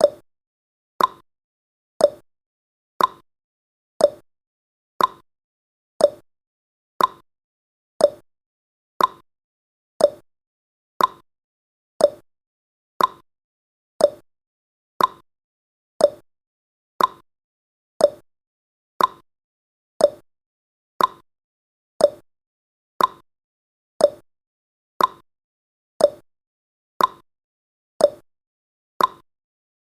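Clock-ticking sound effect of a countdown timer: one sharp tick every second, alternating between a higher and a lower tick in a tick-tock pattern.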